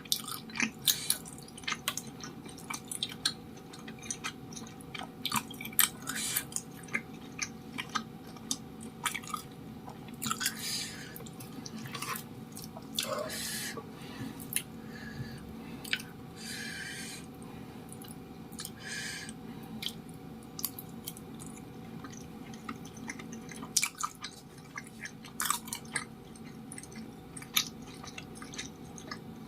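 Close-miked chewing of chewy tapioca-starch cilok balls, with many short wet mouth clicks and smacks throughout and a few longer wet squelches about halfway through.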